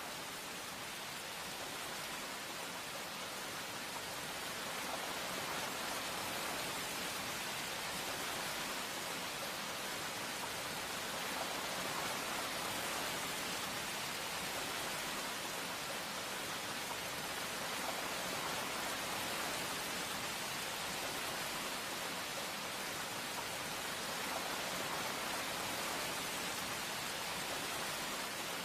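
Steady rain falling, an even hiss that swells a little over the first few seconds.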